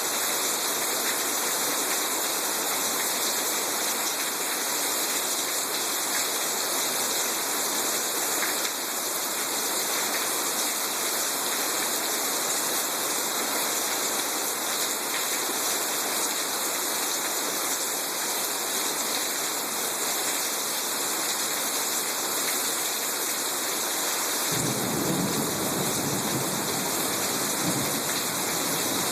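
Heavy rain pouring down in a steady hiss during a thunderstorm. A low rumble, likely thunder, comes in near the end.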